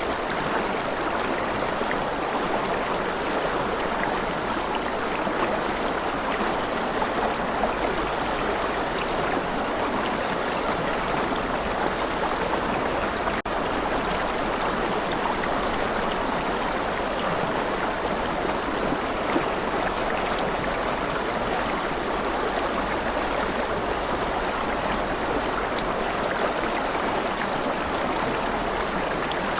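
Rushing river: a steady, even rush of flowing water that does not change.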